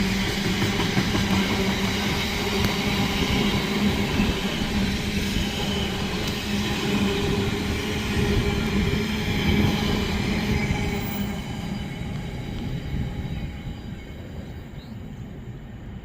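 A train running along the platform, a steady mechanical hum with higher whines over it, growing fainter over the last few seconds as it moves away.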